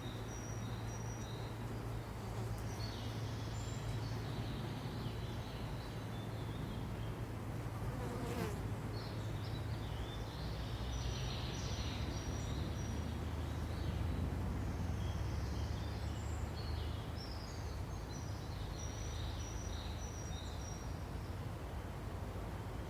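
Forest ambience: a steady low buzzing hum under small birds' high, thin chirps that come in short clusters. A brief sharp sweep about eight seconds in.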